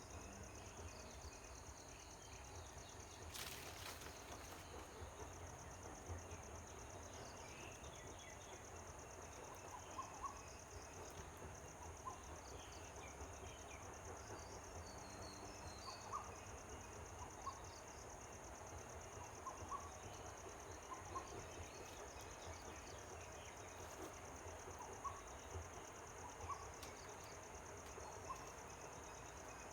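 Faint outdoor ambience: a steady high insect drone with short bird calls scattered through it, and one brief rustle or knock about three and a half seconds in.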